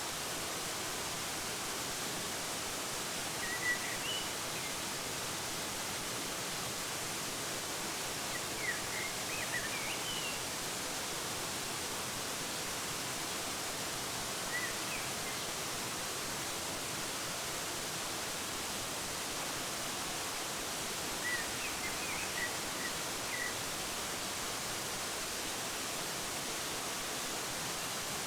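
Steady rush of a waterfall, with short bird chirps in a few brief clusters.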